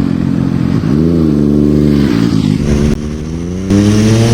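MV Agusta F3 RC 800's three-cylinder engine through an SC Project exhaust, revving up and dropping back, then after a sudden cut pulling with a steadily climbing pitch as it accelerates.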